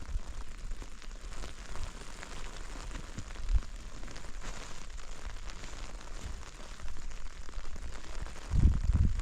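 Rain falling in a steady patter of fine ticks, with a brief low thump about three and a half seconds in and a louder cluster of low thumps near the end.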